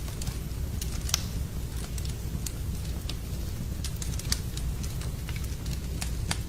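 Campfire crackling: irregular sharp pops and snaps of burning wood, the strongest about a second in and again just past four seconds, over a steady low rumble.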